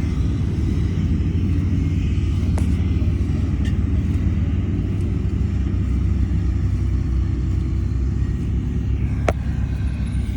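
Heavy diesel engine of earthmoving machinery running steadily, with a low rumble. Two sharp clanks break through, one a few seconds in and a louder one near the end.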